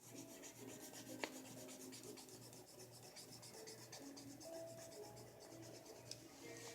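Twistable coloured pencil shading back and forth on a colouring-book page: a soft, rapid scratching of pencil on paper.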